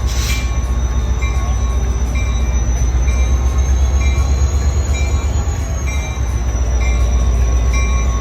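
Riding in a passenger train car as it runs along the track: a steady heavy low rumble, with a faint high whine that rises slightly and falls back around the middle.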